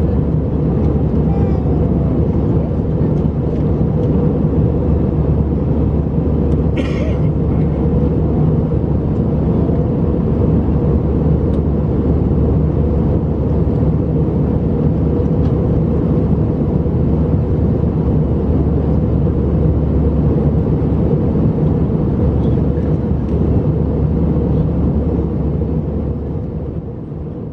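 Steady drone of engines and airflow inside the cabin of an Airbus A319 in flight, low and even, with a brief higher sound about seven seconds in; it fades out near the end.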